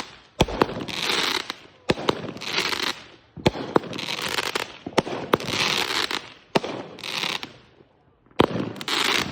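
Consumer fireworks going off in a series of sharp bangs, often in close pairs, roughly every second and a half. Each bang is followed by about a second of hiss.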